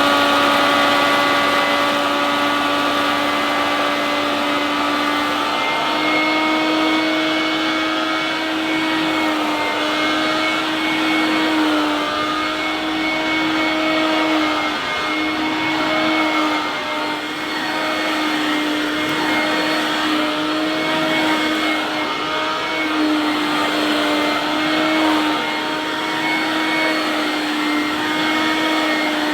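Hoover Dustvac mains-powered hand-held vacuum cleaner running, a steady motor whine that steps up slightly in pitch about six seconds in and then wavers a little.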